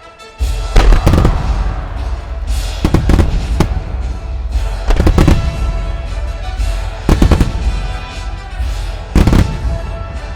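Aerial fireworks shells bursting in quick succession with loud booms that start suddenly about half a second in, coming in clusters about every two seconds over a constant low rumble. Music plays underneath.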